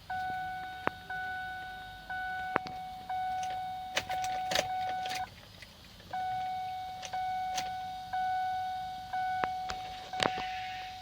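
A car's dashboard warning chime tolling about once a second, each note fading, in two runs with a short pause between, with scattered sharp clicks. The engine does not crank: a weak connection in the bridged starter wire means the car isn't trying to start.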